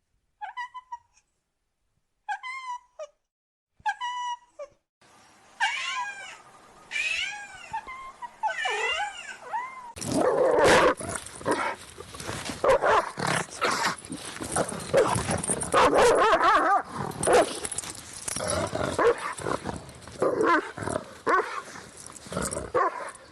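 Dog vocalising: a few short high yelps, then whines that glide up and down, then from about ten seconds in a long run of rapid, loud barking.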